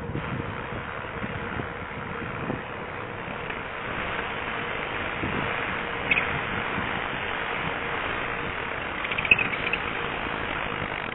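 Steady wind and tyre noise from a bicycle being ridden, picked up by a head-worn camera's microphone, with short high squeaks about six seconds in and again near nine seconds.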